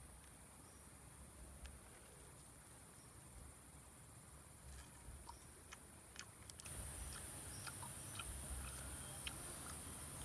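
Steady high-pitched insect chorus that grows louder about two-thirds of the way through, with scattered small clicks and ticks.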